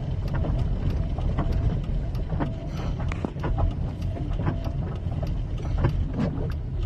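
A vehicle under way, with a steady low rumble and many irregular sharp clicks and knocks.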